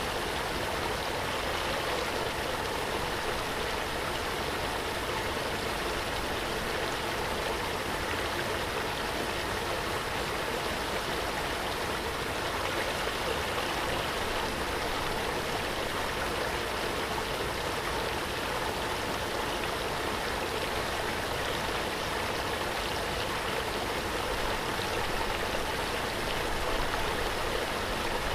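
Waterfall: water falling and rushing with a steady, even splashing roar, no change throughout.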